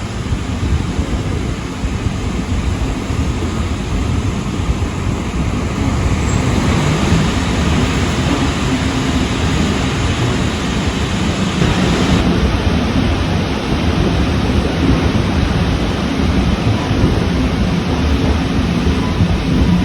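Rhaetian Railway regional train running along the line, heard on board: a steady, loud rumble of wheels on the rails.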